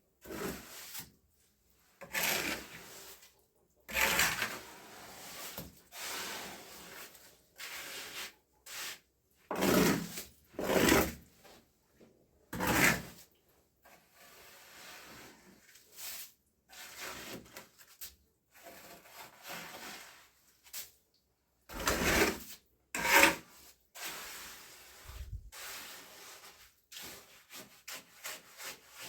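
Irregular scraping and rubbing strokes of a hand tool on a rough surface, each lasting under a second, with uneven pauses between them.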